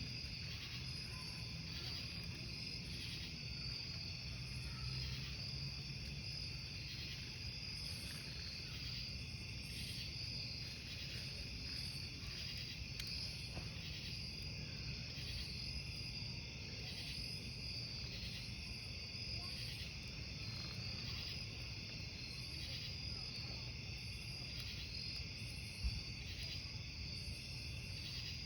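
Crickets chirping in a dense, steady chorus that pulses evenly, over a soft low rumble. One sharp crackle-pop from the burning campfire wood comes near the end.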